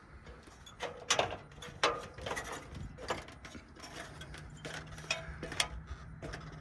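Irregular clicks and knocks of hard equipment being handled, with a faint steady low hum coming in about four seconds in.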